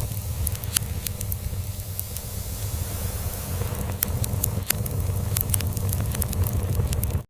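Log fire crackling, with frequent sharp pops, over a low steady rumbling purr from a cat.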